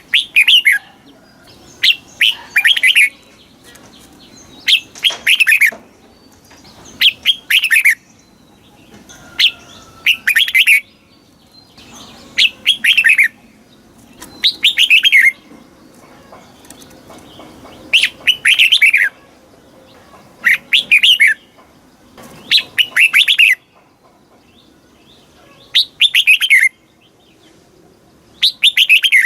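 Red-whiskered bulbul singing its short song phrase over and over, about a dozen phrases roughly every two seconds, each a quick run of falling whistled notes.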